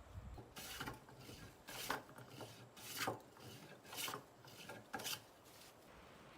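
Rhythmic rasping or scraping strokes, about one a second, five in all.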